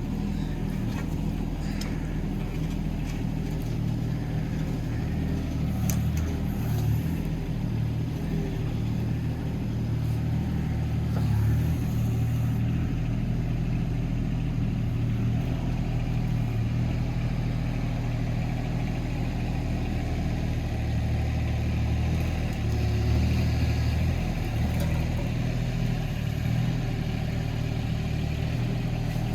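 Hitachi ZX18 mini excavator's diesel engine running steadily while digging, its note swelling under load a couple of times, with a few light knocks.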